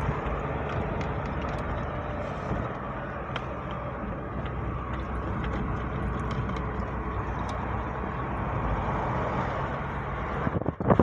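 A car driving along a road: a steady mix of engine and tyre noise, with a low rumble underneath.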